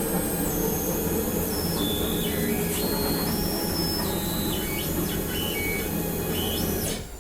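Onefinity CNC's stepper motors whining as the machine moves, with high tones that jump between several pitches as the axes change speed, over a steady low hum. The whine cuts off sharply about seven seconds in as the move ends.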